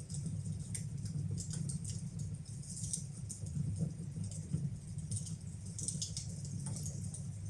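Wood fire burning in a fireplace: irregular crackles and small pops over a steady low rumble.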